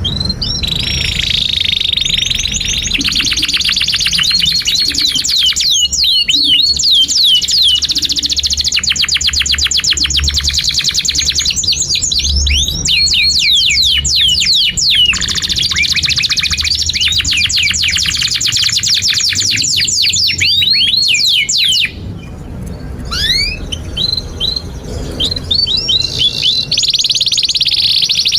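Domestic canary singing a long, unbroken song of fast trills and rapidly repeated high chirps and rolls. About three-quarters of the way through, the song drops away briefly before the trills build again.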